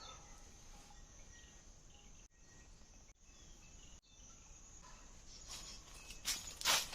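Forest ambience: a steady high drone of insects with a few faint, short bird chirps. Near the end come two loud crunching steps through dry leaf litter.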